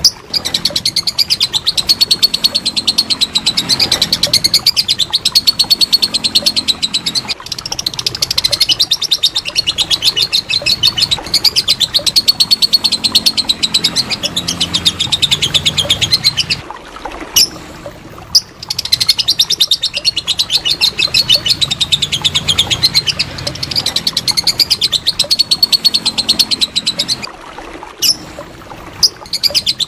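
Lovebird singing its long 'ngekek' song: unbroken runs of very rapid, high-pitched chattering chirps, breaking off briefly a few times.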